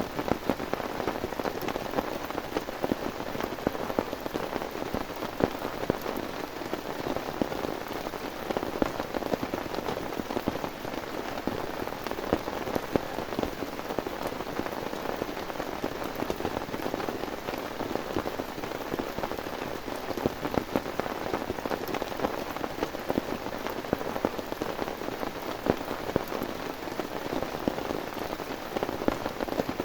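Heavy rain falling steadily, a dense, even spread of many individual drop hits on a surface.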